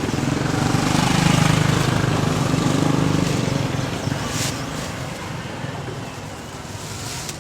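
A vehicle engine passing close by: a low hum that swells over the first three seconds, then fades away. A brief click sounds about four and a half seconds in.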